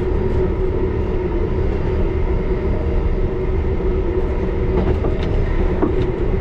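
Running noise of a 1938 Tube Stock underground train: a steady low rumble with a steady humming tone through it, and a few light clicks about five seconds in.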